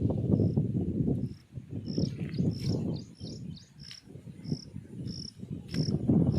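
Insect, cricket-like, chirping a short high note about every 0.6 seconds, over louder irregular low rumbling.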